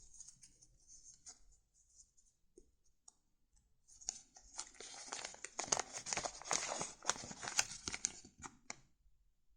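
Paper handled close by, a dense crinkling rustle that starts about four seconds in and stops about five seconds later, with a few faint small clicks before it.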